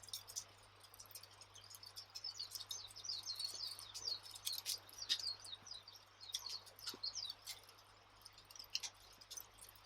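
Wood fire crackling with scattered sharp pops, over a steady twittering of small birds that thickens in the middle.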